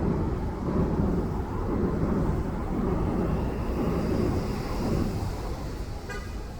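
Low rumble of passing street traffic that fades off, then a short vehicle horn toot near the end.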